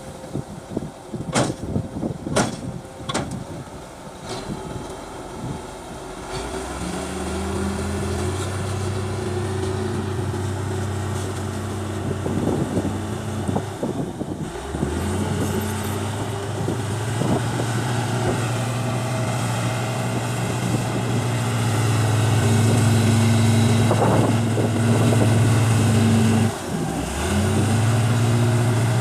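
A few sharp knocks, then a heavy diesel engine of construction machinery running steadily, its note rising slowly and dipping briefly twice.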